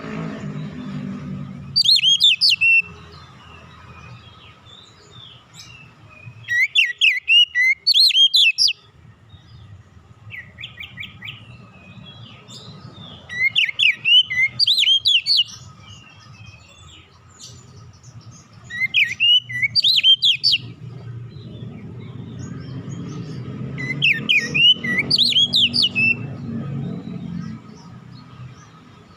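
Oriental magpie-robin (kacer) singing in short loud phrases of rapid, sweeping whistled notes, five phrases a few seconds apart. A low rumble and a faint steady high tone run underneath.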